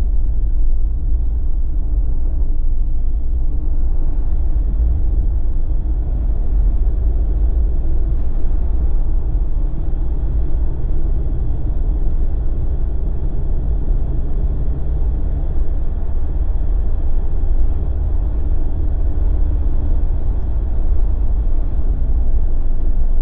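Steady low rumble of a Jeep on the move, engine and snow tires on the road heard from inside the cabin, with a faint steady engine hum over it.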